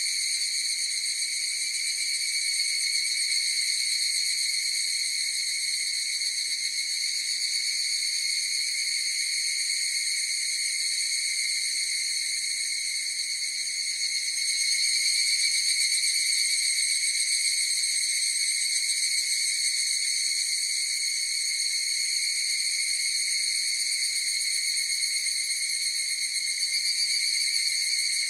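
Chorus of higurashi (evening cicadas, Tanna japonensis) calling in a continuous, unbroken high-pitched drone that grows slightly louder about halfway through.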